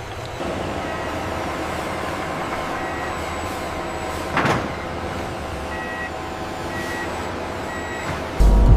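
Steady hum of factory machinery with a short high electronic beep repeating about once a second in two runs of three, and a brief hiss about halfway. Near the end a sudden loud, deep rumble comes in.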